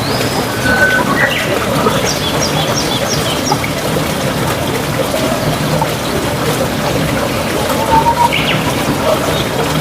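Small birds chirping and whistling, including a quick run of about five high notes, over a steady rush of running water.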